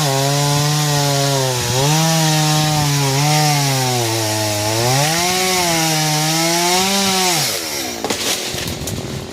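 Chainsaw cutting into a tree, its two-stroke engine note rising and sagging as the chain loads in the wood. About seven and a half seconds in, the engine winds down, and a few sharp knocks and cracks follow near the end.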